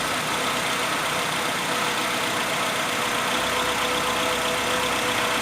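Renault Sandero engine idling steadily after a valve clearance adjustment and a loose timing belt put right. The mechanic puts the bearing noise that remains down to the clutch release bearing.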